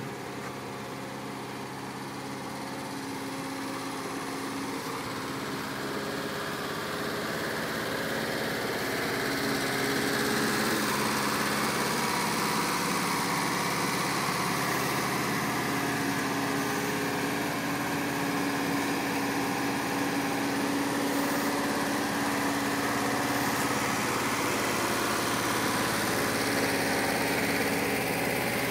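1980 Volkswagen Transporter's rear-mounted air-cooled flat-four engine idling steadily, growing louder over the first ten seconds or so and then holding.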